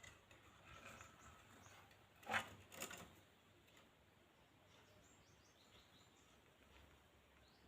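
Near silence, broken by a few faint bird chirps from an Indian ringneck parrot and two short, sharp sounds about half a second apart, roughly two and a half seconds in.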